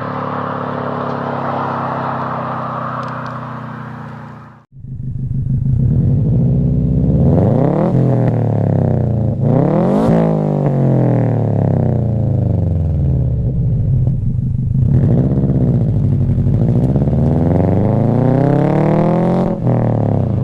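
Exhaust of a 2004 Subaru WRX's turbocharged 2.0-litre flat-four through an Invidia N1 racing catback, driven past. First a steady engine note fades away, then the note climbs and drops again and again as the car accelerates hard through the gears and passes.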